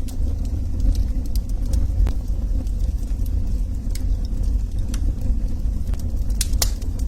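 Log fire burning with a steady low rumble and scattered sharp crackles and pops; the loudest pops come close together near the end.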